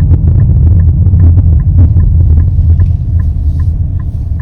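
Car driving at speed, heard as a loud, steady low rumble of road and wind noise, with faint quick ticking over it.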